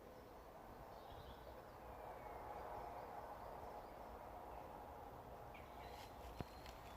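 Faint woodland ambience: a low steady hiss with a few soft, distant bird chirps, and a single sharp click near the end.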